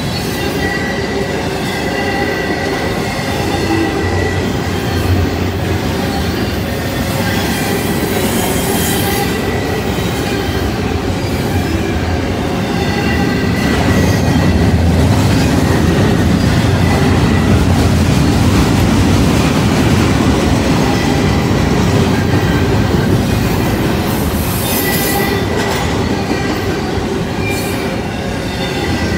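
Double-stack intermodal freight train rolling past: a steady rumble of steel wheels on the rails, a little louder through the middle, with a thin wheel squeal now and then.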